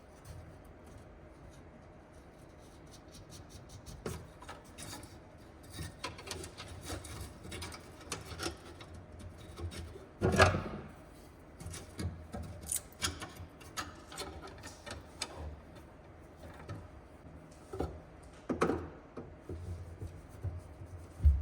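Screwdriver turning a stuck Phillips screw out of a fuel tank mount, with irregular scraping, rubbing and clicking strokes. There is a louder knock about ten seconds in.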